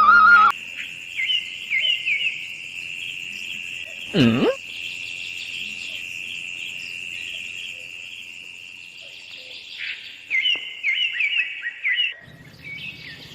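Birds chirping in quick repeated phrases, with a steady high insect-like drone between the bursts. One loud swooping sound falls and rises in pitch about four seconds in.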